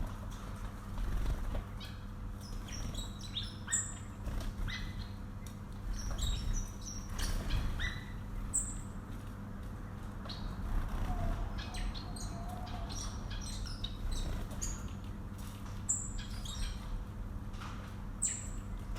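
Pet birds chirping in short, high calls scattered throughout, with wing flutters and light rustling, over a steady low hum.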